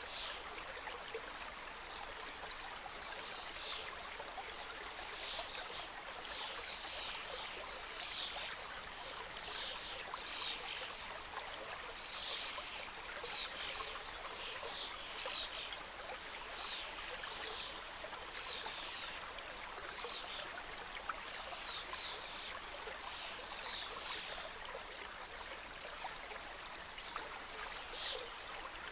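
Small mountain stream cascading over rocks: a steady, even rush of water. Many short high-pitched notes come and go over it throughout.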